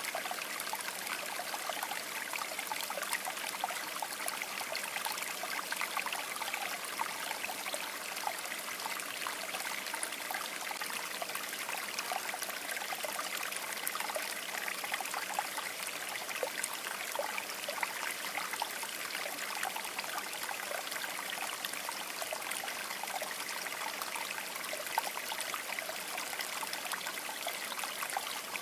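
Shallow river babbling over stones, a steady rush of water flecked with many small bubbling, trickling splashes.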